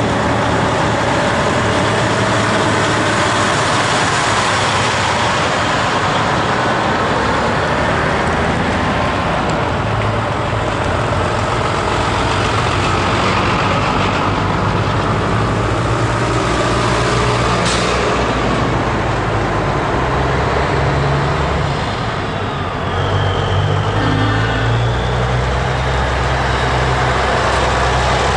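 Heavy trucks' diesel engines running as they drive past, the engine note shifting as one truck gives way to the next. A single sharp click near the middle.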